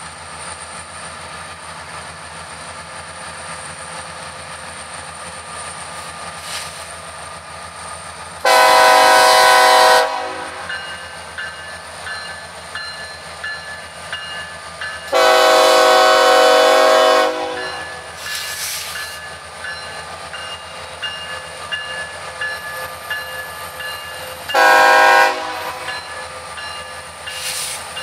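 Freight train of diesel locomotives and hopper cars rolling past, a steady rumble with wheel clicks. Over it a multi-tone locomotive horn sounds two long blasts and then a short one, the pattern of the standard grade-crossing signal.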